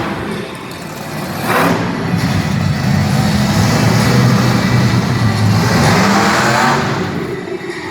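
Monster truck engine revving loudly, swelling about a second and a half in and easing off near the end.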